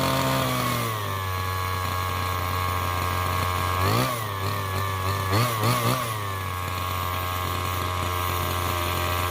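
Small 32cc two-stroke gas engine of a Redcat Rampage MT RC truck running on its first start: it settles to a lower idle in the first second, is blipped once about four seconds in, then three quick blips just before six seconds, and returns to a steady idle.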